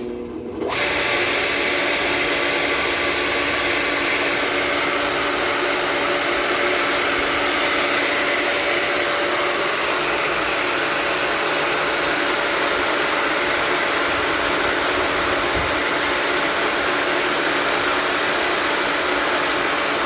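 Swimming pool pump starting up, its motor coming up to speed within about a second, then running loud and steady: a hum of several fixed tones over a rushing noise.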